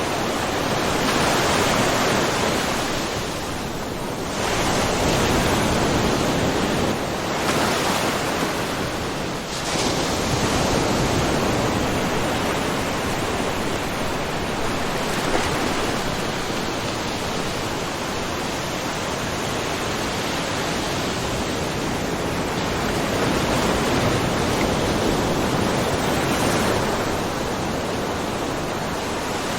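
Small ocean waves splashing and washing over rocks in a cove, a steady surf wash that swells and eases every few seconds.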